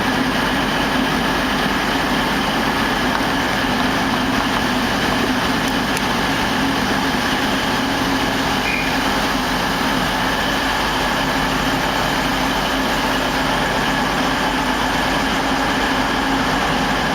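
Steady drone of a train's engine running, with a constant hum over the noise.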